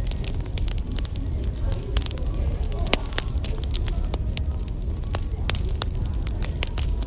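Wood fire crackling, with many sharp irregular pops several times a second, over a steady low rumble.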